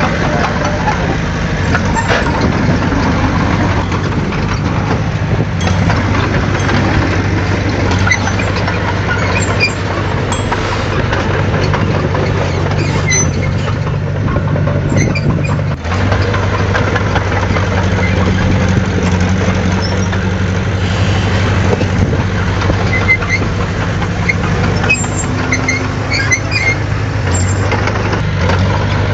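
Heavy diesel engine of earthmoving equipment running steadily. Its note shifts a few times and dips briefly about sixteen seconds in.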